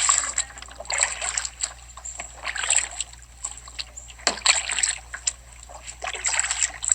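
Kayak paddle blades dipping and pulling through the water, splashing in a slow rhythm with a stroke every second or two.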